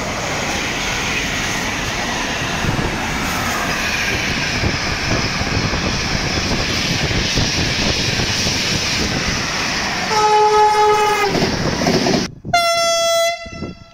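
Trains passing at speed on electrified track, with a loud rushing of wheels on rail. About ten seconds in, a train horn sounds for over a second. After an abrupt break, a second, higher-pitched horn blast comes near the end.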